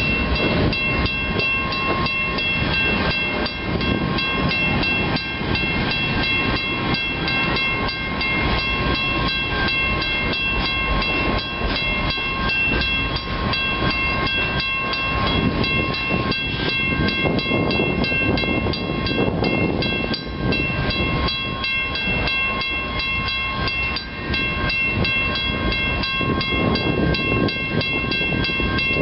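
Freight train of grain hopper cars rolling past: steady wheel-on-rail rumble with a rapid run of clicks, rising and falling in waves, and several steady high ringing tones over it.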